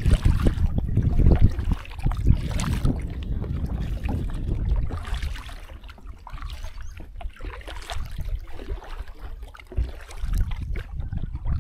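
Paddling a small boat down a river: paddle strokes and water splashing against the hull, over a heavy low rumble that eases about halfway through.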